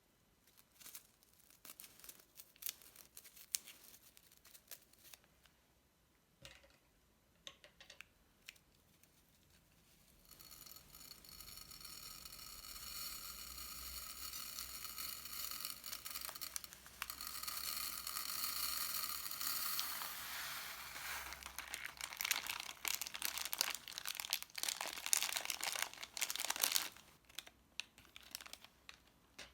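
Plastic piping bags and slime being handled, crinkling and crackling. Scattered small clicks and crinkles come first, then a long stretch of continuous crackly, tearing-like noise from about a third of the way in until near the end.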